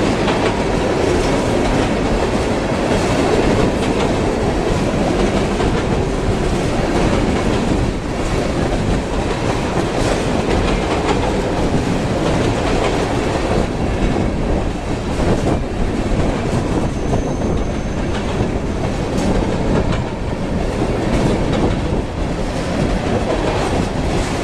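Long freight train of ethanol tank cars rolling steadily past at close range, with a continuous rumble and the clickety-clack of wheels over rail joints.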